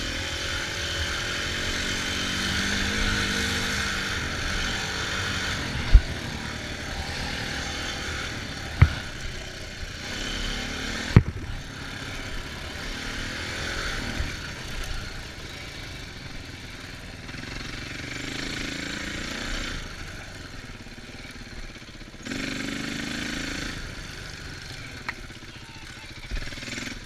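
Dirt bike engine running while riding, its pitch rising and falling with the throttle, under steady rushing noise. Three sharp knocks come at about 6, 9 and 11 seconds in.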